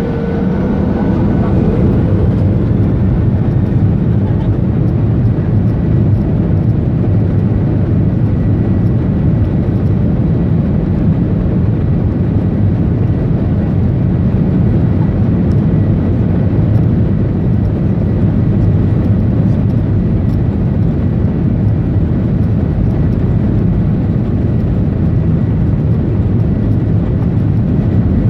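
Ryanair jet airliner's engines at takeoff thrust: a loud, steady roar during the takeoff. In the first couple of seconds a faint whine fades out as the roar grows a little louder, then it holds steady.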